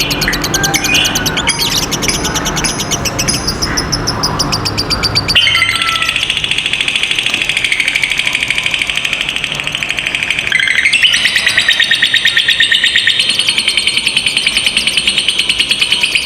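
Lovebird singing ngekek: a long, fast chattering trill of many quick high notes, kept going for seconds at a time. The sound changes abruptly about five seconds in and grows louder about eleven seconds in.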